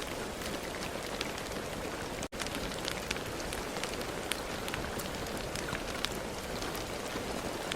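Steady rain, an even hiss full of individual drops ticking on a surface. It cuts out for an instant about two seconds in.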